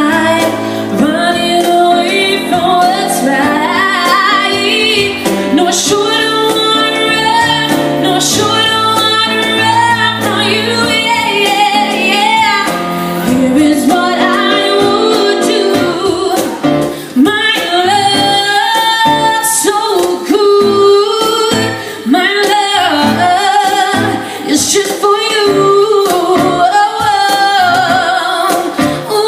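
A woman singing a slow R&B-style melody over a steady instrumental accompaniment, her voice bending and sliding between held notes.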